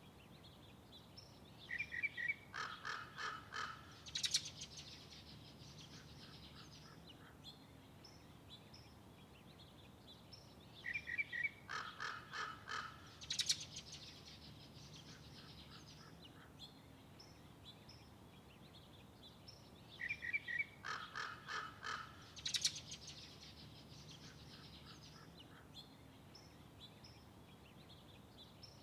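Bird calling three times, about nine seconds apart; each call is a short note followed by a quick run of rapid notes ending in one sharp high note.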